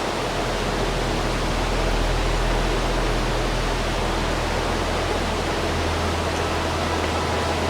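Small waterfall, water rushing and splashing in a steady, even wash of noise.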